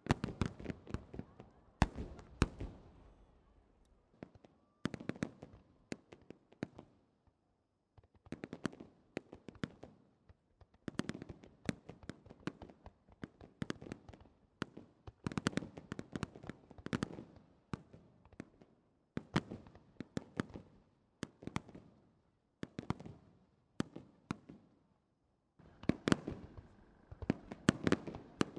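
Fireworks star mine: a rapid-fire barrage of aerial shells bursting in quick succession, sharp bangs crowding together in volleys separated by short pauses.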